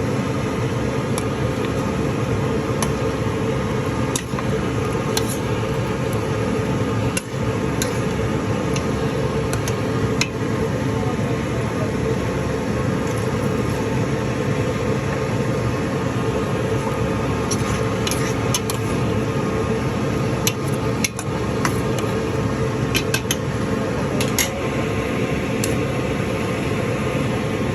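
Steady mechanical hum in a kitchen, with scattered light clicks and clinks of cookware through it, a few coming close together now and then.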